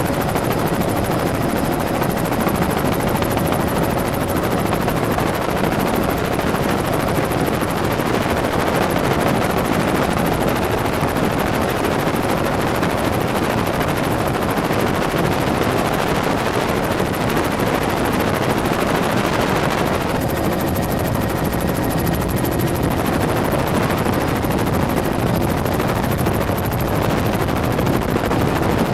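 Helicopter in flight, heard from inside the cabin: steady, loud rotor and turbine noise with no break, slightly duller in tone about two-thirds of the way through.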